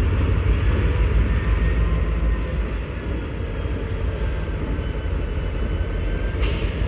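Railcars rolling through a railyard with a steady low rumble and a thin, high wheel squeal that drifts slowly down in pitch. A short hiss comes near the end.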